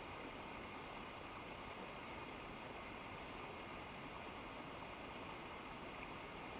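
Steady rushing of a mountain river's water, an even, unbroken noise.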